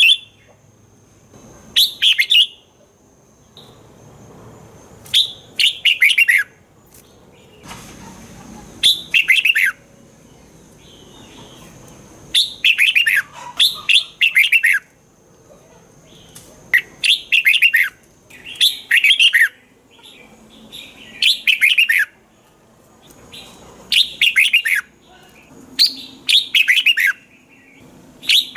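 Red-whiskered bulbul singing: short, loud phrases of several quick falling whistled notes, repeated every one to three seconds.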